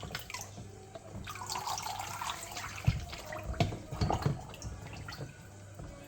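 Water splashing and sloshing as Lego pieces are moved about in it, with a few short sharp splashes or plastic knocks about three to four seconds in.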